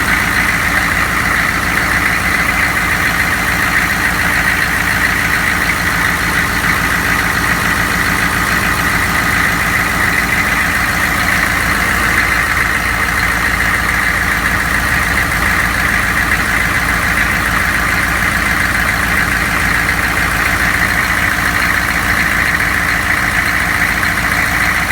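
GM 6.5 L turbo diesel V8 idling steadily, with no revving.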